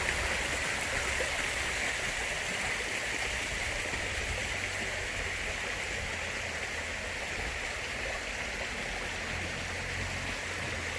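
Small cascade of spring water pouring and rushing steadily over rocks.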